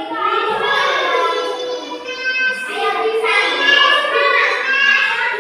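A child singing, with long held notes that bend in pitch.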